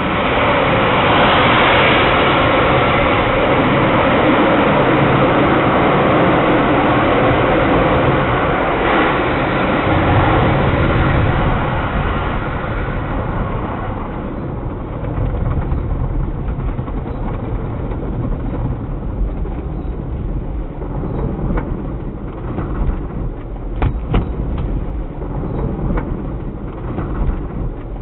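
Car wash equipment running: a loud, steady rush of noise that drops off about halfway through, followed by a lower rumble with a few sharp knocks.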